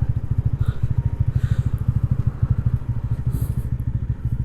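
TVS Ronin's single-cylinder engine running steadily at low revs, its exhaust giving a fast, even train of low pulses.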